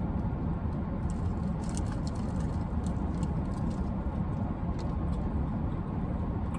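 Steady low rumble, like a car's engine heard from inside the cabin, with a few faint clicks over it.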